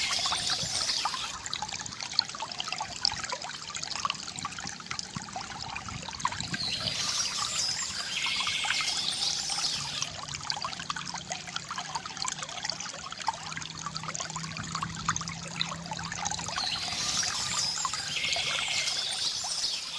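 Water from a bamboo fountain trickling and pouring steadily, with a continuous splashy gurgle.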